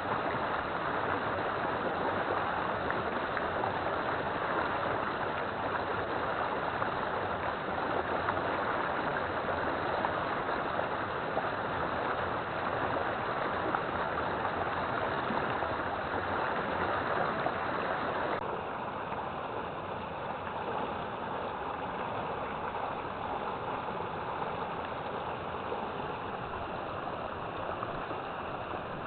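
River water flowing steadily in an even rush. A little over halfway through, the sound changes abruptly and becomes slightly softer and duller.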